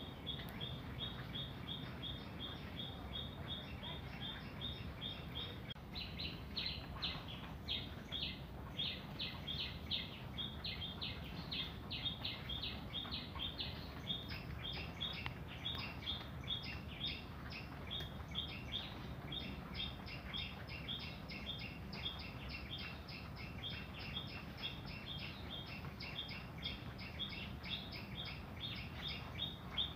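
Small birds chirping in rapid runs of short, high chirps, several a second, getting busier and more varied after about six seconds, over a steady low hum.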